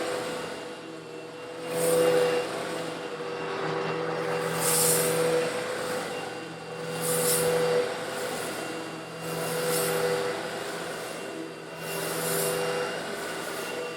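Old Eureka vacuum cleaner running with a steady motor hum, sucking up coarse stone granules slightly larger than sand. The granules rattle and hiss up the nozzle in swells about every two and a half seconds, with each push of the cleaner.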